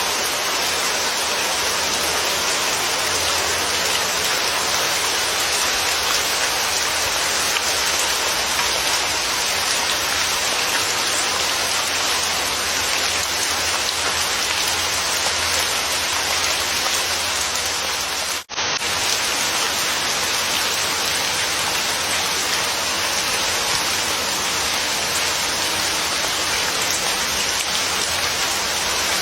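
Steady rain falling, a dense even hiss of many drops. It cuts out for a split second about two-thirds of the way through and resumes at once.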